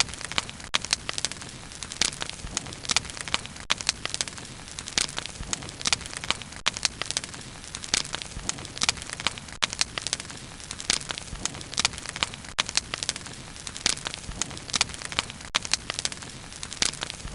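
Bonfire of burning wood crackling: a steady hiss with many sharp pops and snaps, several a second.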